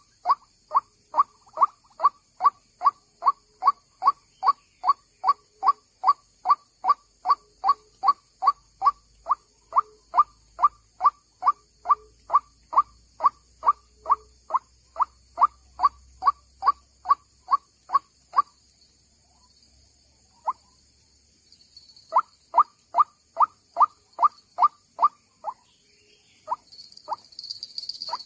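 White-breasted waterhen call: a fast, even run of short, identical notes, about two and a half a second, that breaks off for a few seconds past the middle, then starts again in shorter runs.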